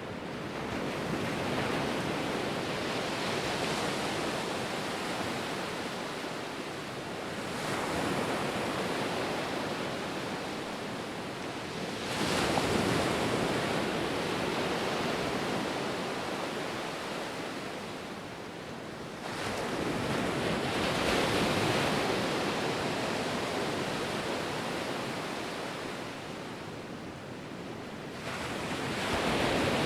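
Ocean waves washing in, a steady wash of surf that swells and fades in slow surges every several seconds.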